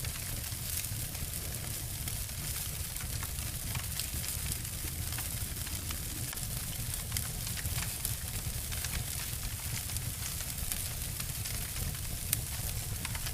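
Wood fire crackling and snapping, two fire recordings (a campfire and a fireplace) layered: a steady low rumble of burning under a constant scatter of sharp pops, with one louder snap near the end.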